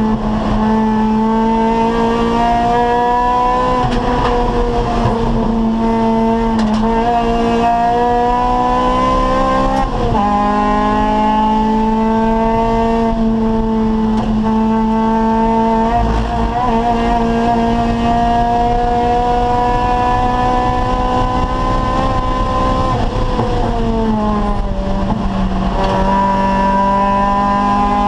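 Acura Integra Type-R race car's four-cylinder VTEC engine running hard under load, its pitch climbing slowly through long pulls. Three times the revs drop sharply, then climb again.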